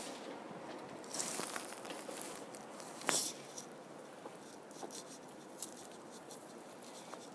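Soft rustling and scattered light crunches, with a louder rustle about a second in and a sharper one about three seconds in.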